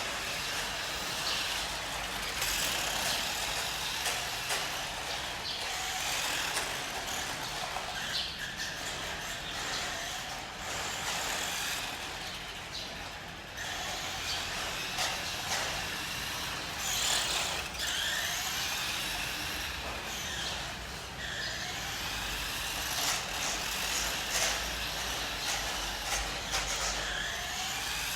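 Tokyo Marui 1:5 scale RC motorcycle running, its electric motor whining up and down in pitch again and again as it speeds up and slows, over a steady hiss.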